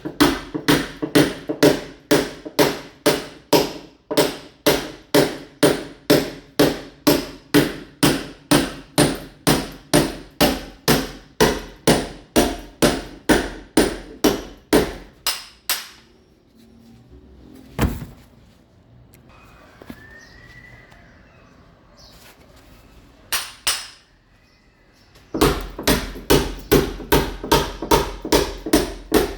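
Mason's hammer (marreta) chipping a masonry wall, steady strikes about two and a half a second, roughening the surface for ceramic tile. The hammering stops about halfway through for some ten seconds, with two single blows in the gap, then starts again.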